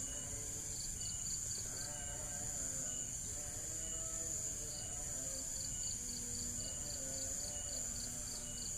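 Background insects: a steady high drone with runs of rhythmic chirping, about four chirps a second, over a low rumble and faint wavering tones.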